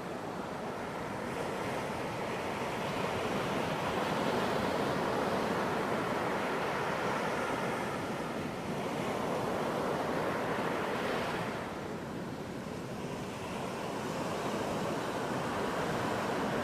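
Ocean waves breaking on a beach: a continuous rushing surf that swells and eases slowly, with a brief lull about three quarters of the way through before building again.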